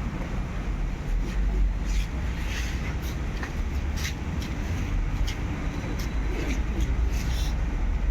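Massey Ferguson 254 Smart 4WD tractor engine running with a steady low rumble, with scattered light clicks and knocks over it.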